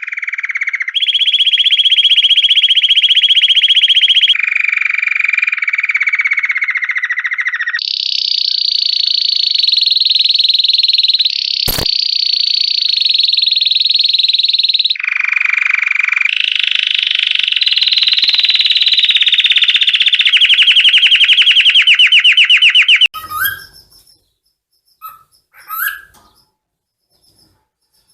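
Canary singing a long song of very rapid trills. Each roll is held at one pitch for a few seconds before jumping to another, higher or lower. The song stops abruptly near the end, followed by a few short chirps, with a single sharp click about halfway through.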